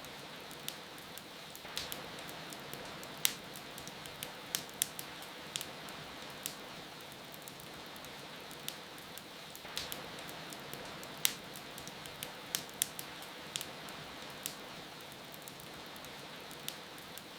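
Wood fire crackling, with sharp pops at irregular intervals, over a steady hiss of falling rain.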